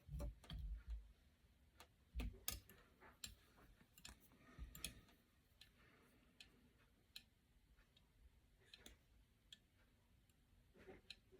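Faint scattered clicks and light taps of fly-tying tools and materials being handled at the bench, with a couple of soft thumps in the first few seconds.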